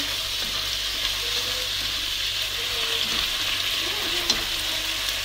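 Sliced beef with onion and red bell pepper frying in a nonstick pan, a steady sizzle as it is stirred. A single sharp click about four seconds in.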